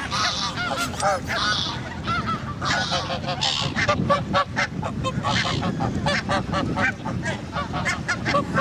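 A flock of geese honking, many short calls overlapping one after another.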